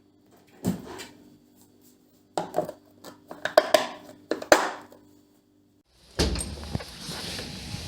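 Knocks and clatter of household objects being handled and set down: one about a second in, then a quick run of them. A steady rushing noise with a low rumble starts near the end.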